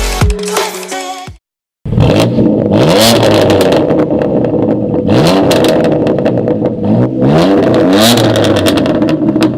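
BMW M4's twin-turbo straight-six through a Remus aftermarket exhaust, revving up several times with the pitch climbing and dropping back, and a few sharp cracks at the rev peaks. It starts about two seconds in, after a short cut-off of music.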